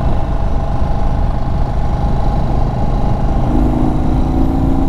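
Indian Chief Bobber Dark Horse's air-cooled V-twin engine running steadily while the motorcycle is ridden, with a dense rumble. A steadier hum joins about three and a half seconds in.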